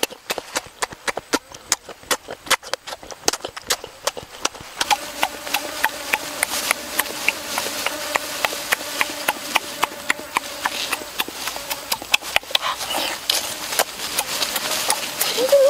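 A child chewing duck egg with his mouth close to the microphone: rapid, irregular smacking and clicking mouth sounds. A faint steady hum runs underneath from about a third of the way in until past the middle.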